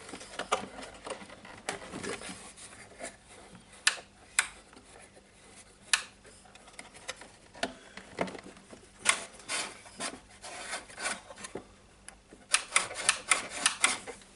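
Plastic buttons being worked into the housing of a DeWalt DC011 site radio: hard plastic rubbing with scattered sharp clicks, and a quick run of clicks near the end.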